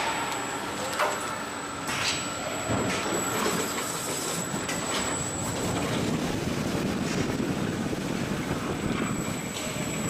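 Factory floor machinery noise: a steady mechanical din with a few sharp clanks and a thin high whine.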